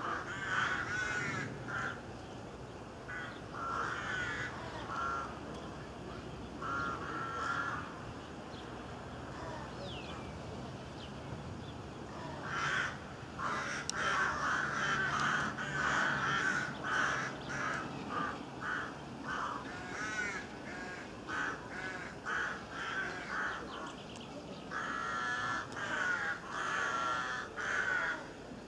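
Birds calling over and over in bursts of short calls, with a quieter stretch about a third of the way in.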